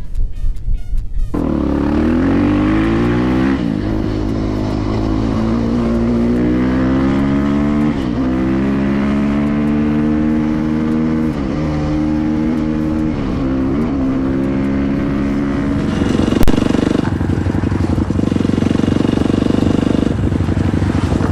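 Motorcycle engine accelerating hard through the gears: the pitch rises, drops back at each upshift and climbs again, five or six times. About 16 seconds in there is a sharp crack, and after it the engine holds a steadier note under more rushing noise.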